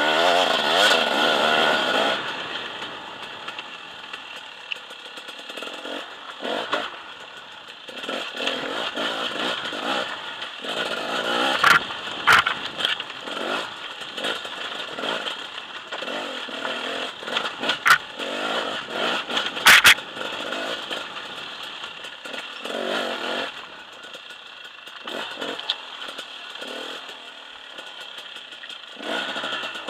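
KTM enduro motorcycle engine revving up and down as it climbs a rocky trail, loudest at the start. A few sharp knocks cut through in the middle.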